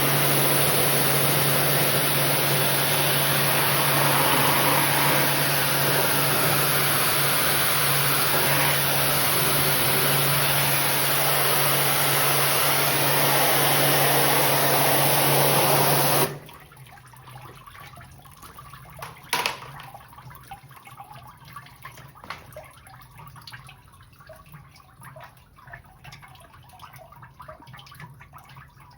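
Water spraying hard from a motor-driven washer pump, rinsing air-conditioner parts, with a steady motor hum under the spray; it cuts off suddenly about sixteen seconds in, leaving water dripping and trickling, with one sharp knock a few seconds later.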